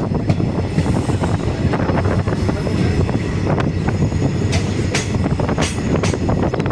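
Passenger train running along the track, heard from on board: a steady rumble of wheels on rails with irregular sharp clicks, a few louder ones past the middle.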